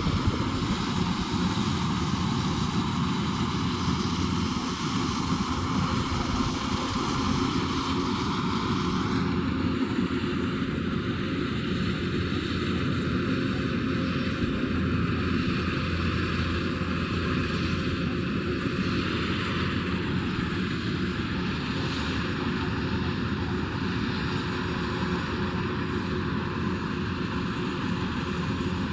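Kubota DC108X combine harvester running steadily while harvesting rice: a constant engine drone with a noisy hiss above it. The hiss in the upper range drops off about nine seconds in.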